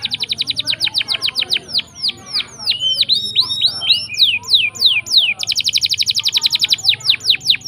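Domestic canary singing a long rolling song: a fast trill of about fifteen repeated notes a second breaks into slower, falling whistled notes, and returns to a fast trill about five and a half seconds in.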